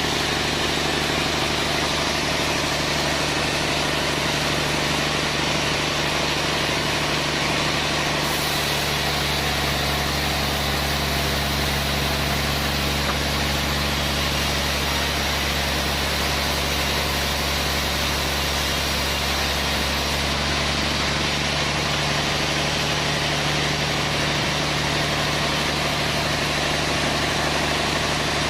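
Sawmill machinery running with a steady engine drone; the low part of the drone grows stronger about a third of the way in and eases back about two thirds of the way through.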